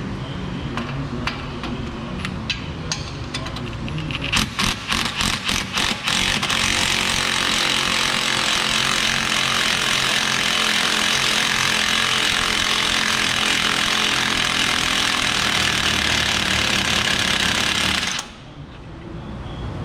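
Impact wrench on wobble extensions hammering at a Jeep Wrangler front lower control arm bolt. It goes in a few short rapid bursts about four seconds in, then runs continuously for about twelve seconds and cuts off near the end.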